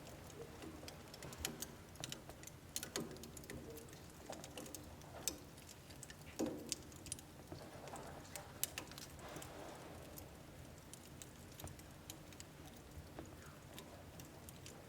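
Wood burning in a household wood stove, crackling with irregular small clicks and a few sharper pops, over a faint low rush of the flames.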